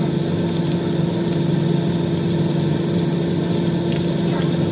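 Crumbed chicken pieces shallow-frying in oil in a pan, a steady crackling sizzle. Under it runs a steady low mechanical hum.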